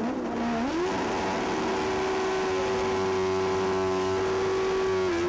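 Drag-racing motorcycle engine revving. Its pitch climbs about a second in and is then held steady at high revs.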